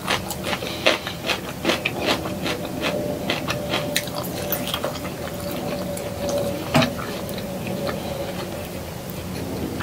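Close-miked eating: wet chewing with many small mouth clicks and smacks as grilled chicken and soft-boiled egg are eaten by hand, with a sharper click about seven seconds in.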